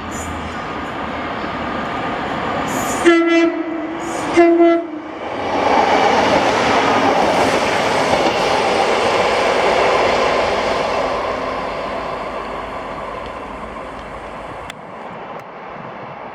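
Train sounding two short horn blasts, then passing close by, its running noise building and then fading away.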